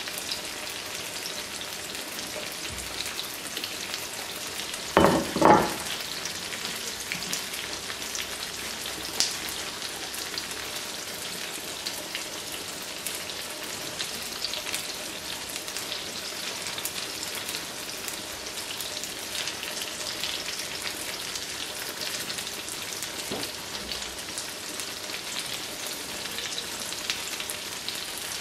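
Pizza dough frying in vegetable oil in a frying pan over low heat: a steady, light sizzle and crackle. About five seconds in, two brief louder sounds come in quick succession.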